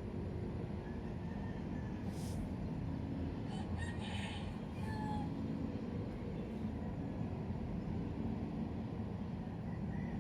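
Steady low background rumble, with a few faint, brief higher sounds about two to five seconds in.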